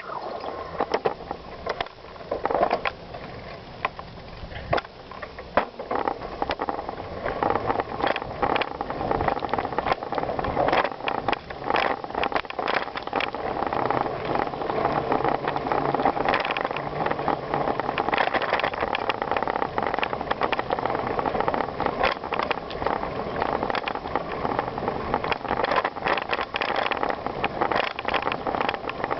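Bicycle being ridden over a gravel trail: a steady crunching tyre noise with a dense run of small rattles and knocks from the bike. It is a little quieter for a few seconds near the start.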